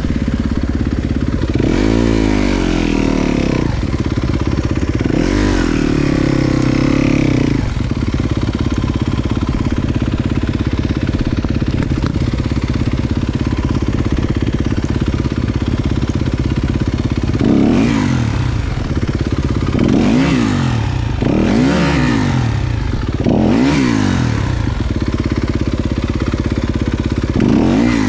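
Dirt bike engine running steadily, its revs rising and falling: one rev-up about two seconds in and a longer one around five seconds, then a run of short throttle blips, about one every two seconds, in the last ten seconds.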